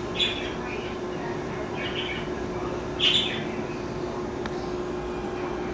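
A few short bird chirps, about three, over a steady low hum.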